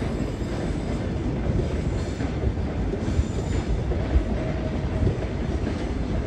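ChS2T electric locomotive pulling a passenger train away from a station at low speed: a steady low rumble of the train moving, with thin high squealing tones that come and go.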